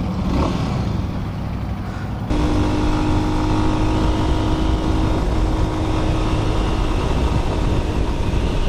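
Small single-cylinder motorcycle engine of a Lifan X-pect 200 running under the rider, with steady road noise; it gets louder about two seconds in.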